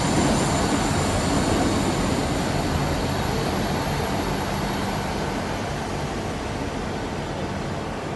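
Class 159 diesel multiple unit running at the platform: a steady diesel engine drone with a faint high whine, slowly getting quieter.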